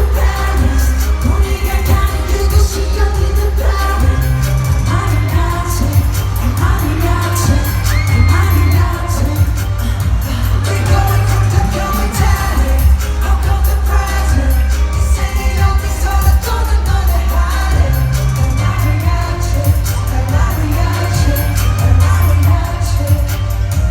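Live K-pop song played loudly over a concert sound system: singing over a heavy bass line and a steady beat, with a crowd cheering along.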